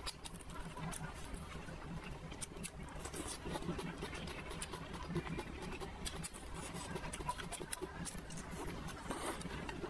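A person chewing and eating mouthfuls of soft noodles with spicy sauce, with many small wet clicks and smacks from the mouth.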